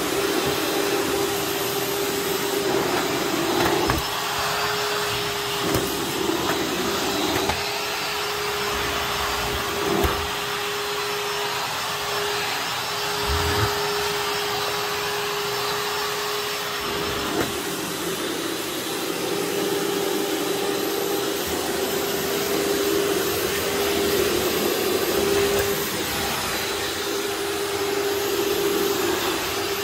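Bosch upright vacuum cleaner running steadily, a constant airflow rush with a steady hum, broken by a few short knocks.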